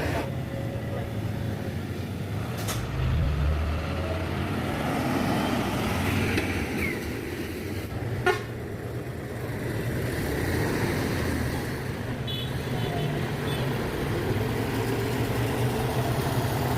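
Heavy road vehicles running with a steady low engine drone, a short horn toot, and a sharp knock about eight seconds in.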